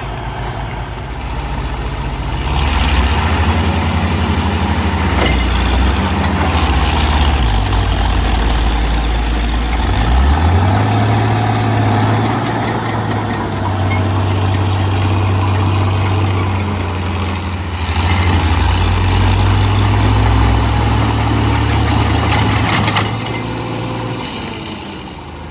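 Diesel engines of heavy crawler tractors working hard. The engine note sags, climbs back about ten seconds in and holds steady, then eases off near the end.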